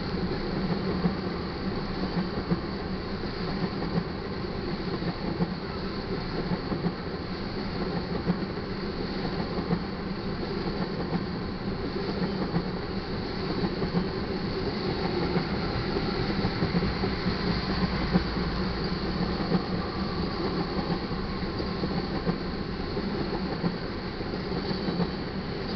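Crude oil tank cars of a freight train rolling past at steady speed: a continuous rumble of steel wheels on rail, with scattered sharp clicks as the wheels cross rail joints.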